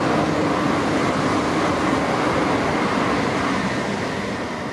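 A train running past, a loud steady rush of running noise that begins to fade near the end.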